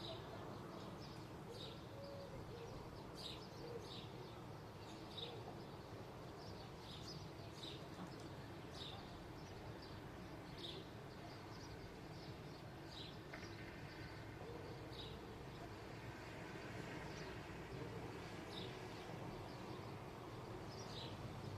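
Small birds chirping, short sharp chirps repeating about once a second, over a steady low background rumble.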